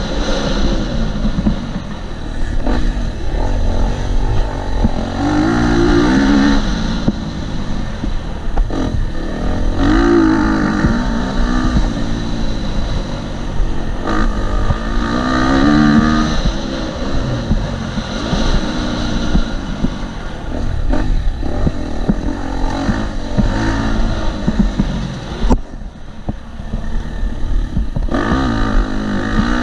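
2018 KTM 250 SX-F single-cylinder four-stroke motocross engine revving hard and backing off over and over as the bike is ridden round a dirt track, pitch climbing through the gears and falling on the throttle. Near the end the throttle closes briefly before the engine picks up again. Heard from a helmet-mounted camera, with a constant low rumble underneath.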